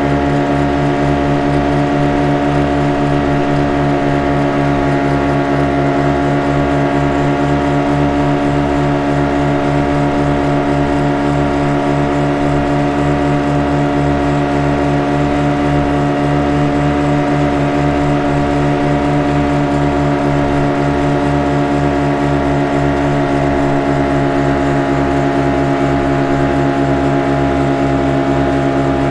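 Motorboat engine running at a steady speed, with a constant hum of several tones over an evenly pulsing low end.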